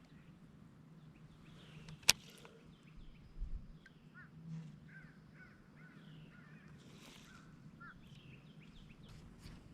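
Birds calling with repeated short chirps, and a single sharp click about two seconds in.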